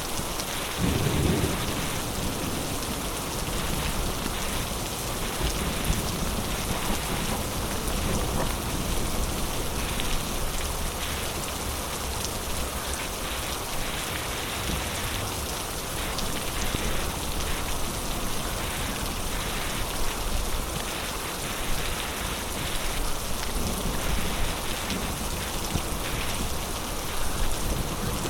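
Heavy rain falling steadily as a dense hiss, with low rumbles of thunder: the strongest comes about a second in, and fainter ones follow later.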